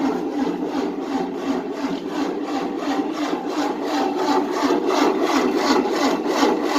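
Starter cranking the 1988 Tennant 255 sweeper's engine over in a steady rhythmic churn, about three to four beats a second, without it firing: a no-start, with the booster and battery suspected of being too weak.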